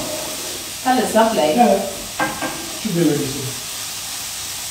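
Pancetta sizzling as it fries in a pan, a steady hiss, with short snatches of quiet talk about a second in and again around three seconds in.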